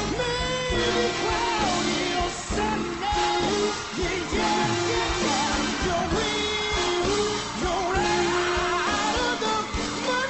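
A man singing a slow jazz standard with held, wavering notes over live big band accompaniment.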